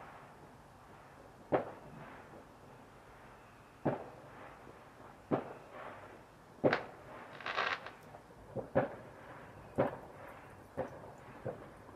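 Fireworks going off: single sharp bangs every second or two, with a brief crackle about seven and a half seconds in.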